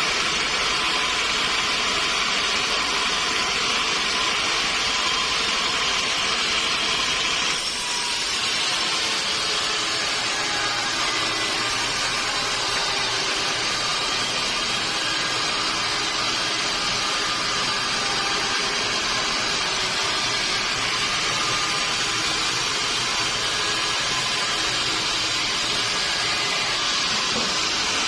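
Sawmill saw running steadily through a mahogany log, a continuous loud mechanical noise with a faint steady whine, which changes abruptly in tone about seven and a half seconds in.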